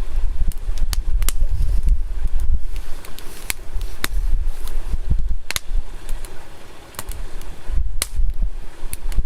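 Wood campfire crackling, with sharp irregular pops, over a low gusting rumble of wind on the microphone.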